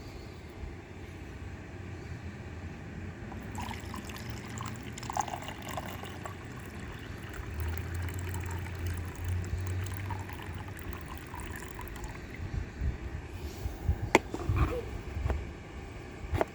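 Water being poured into a mini drip coffee maker's reservoir, splashing and trickling for several seconds. A few sharp clicks and knocks follow near the end.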